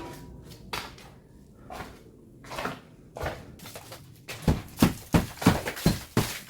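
Knocks and thuds of an old mud-plastered bamboo-lattice structure being struck and broken apart, a few scattered blows at first, then a quick run of heavier blows from about four and a half seconds in.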